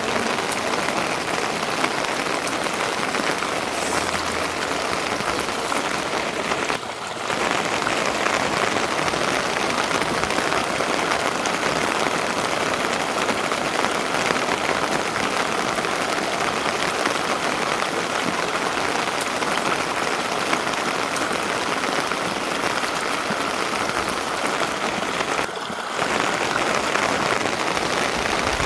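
Steady rain, an even hiss that holds through, with two brief dips, about seven seconds in and near the end.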